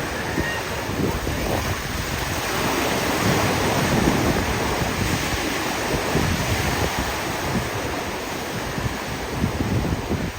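Ocean surf breaking on a beach, swelling a little louder a few seconds in, with wind buffeting the microphone.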